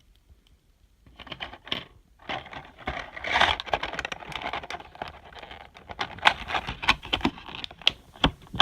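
Plastic packaging crinkling and rustling, with many small clicks, as parts of a 1:200 model airliner are handled and worked out of their box insert. It starts about a second in and is loudest around the middle.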